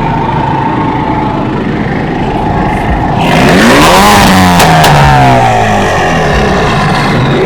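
A car engine running, then revved hard about three seconds in, its pitch climbing and then falling away, with a sharp pop near the top of the rev.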